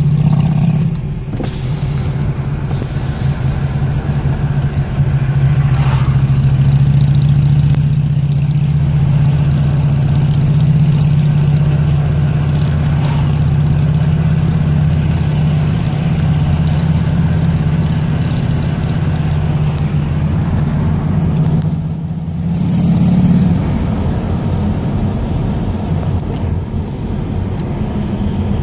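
Steady low engine drone and road noise heard from inside a moving car's cabin, with a short dip and swell in the engine sound about three-quarters of the way through.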